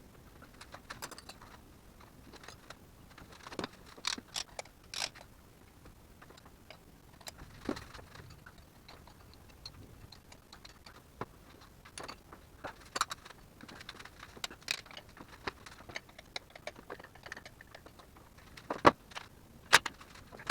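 Irregular metallic clicks, clinks and knocks of hand tools and parts being handled during engine removal work, with two sharper knocks near the end.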